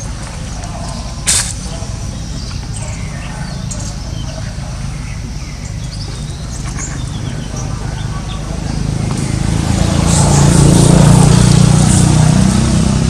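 A motor engine running steadily with a low hum that grows louder over the second half, as if coming closer. A sharp click comes about a second in, and faint high chirps sound over it.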